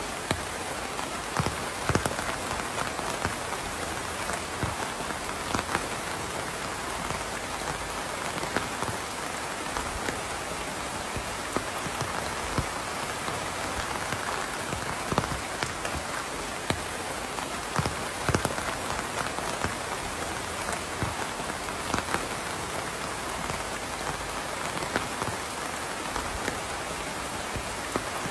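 Steady rain falling on a surface: an even hiss with individual drops ticking and pattering sharply here and there.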